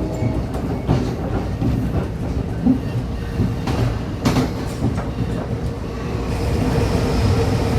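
NJ Transit commuter train running on the rails: a steady low rumble with a few sharp wheel clicks, growing a little louder near the end.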